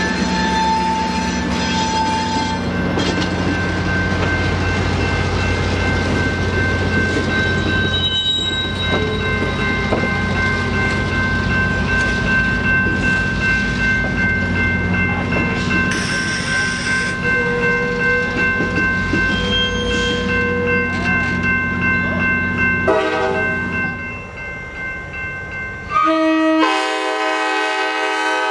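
Passenger train cars rolling past: the rumble and clatter of wheels on the rails, with a steady high whine over it, fading off after about 23 seconds. About 26 seconds in, a locomotive air horn starts suddenly, a held chord of several notes.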